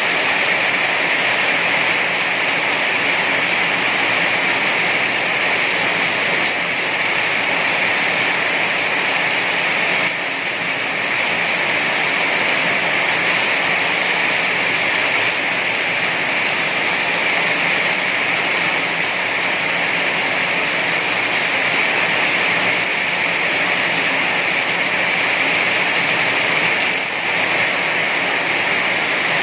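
Heavy rain falling as a steady, dense hiss with no let-up.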